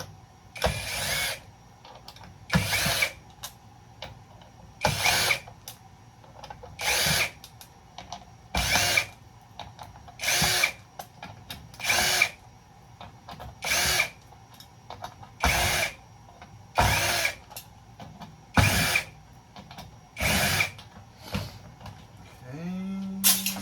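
Cordless drill-driver run in short bursts, about one every two seconds, backing out the Phillips screws that hold bus bars in a breaker box. There is a longer, steadier run near the end.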